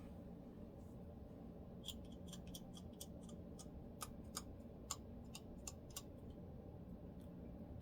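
Lice comb scratching through the scalp and hair, giving a run of about a dozen short, sharp clicks in the middle, over a faint steady hum.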